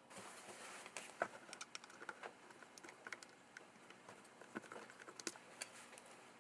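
Irregular light clicks and taps, like small parts being handled, after a brief rustle at the start; the loudest tap comes about a second in.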